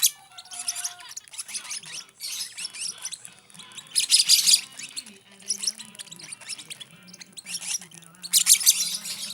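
Young lovebird chicks begging to be hand-fed, a continuous harsh, rapid squawking that swells into loud bursts about four seconds in and again near the end.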